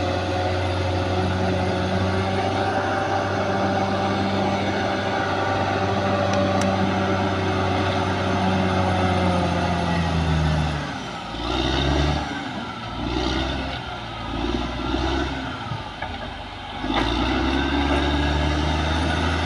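Caterpillar D6R XL bulldozer's diesel engine running steadily. About halfway through it drops back for several seconds into uneven, pulsing sounds with a wavering whine, then picks up to a steady run again near the end.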